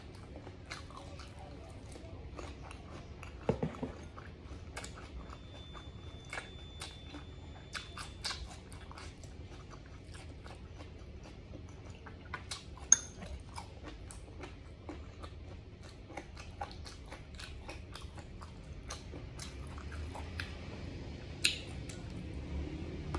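Close-miked chewing of braised pig ear, tongue and tail: scattered small wet clicks throughout, with a couple of sharper clicks about 13 and 21 seconds in.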